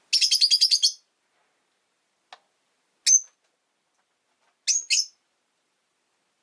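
Rosy-faced lovebirds calling: a quick string of about ten harsh, high chirps in the first second, then a single sharp chirp about three seconds in and a pair of chirps near the end. A faint click comes in between.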